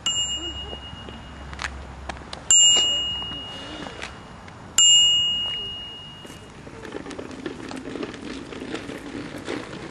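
A bicycle bell dinging three times, each ring starting sharply and fading away, the second and third the loudest. A rough, steady noise follows near the end.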